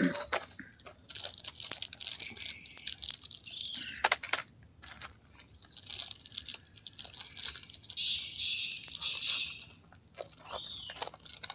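Crunching and chewing of food, coming in irregular patches with a few sharp clicks.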